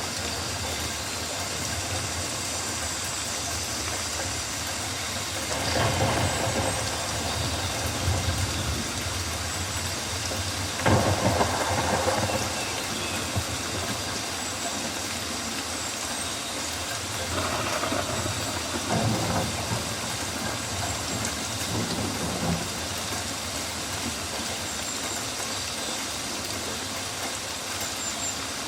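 Steady rainfall on rainforest foliage, a continuous hiss with a low rumble beneath, rising in four brief louder swells along the way.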